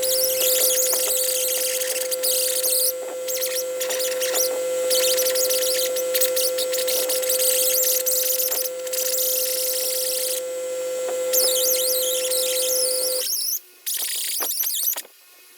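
Powered wire wheel running steadily and scrubbing corrosion off the aluminium engine cases of a Yamaha Warrior 350. A high, scratchy hiss swells and eases as the brush is pressed on and lifted. The motor cuts off about thirteen seconds in, followed by a few brief scrapes.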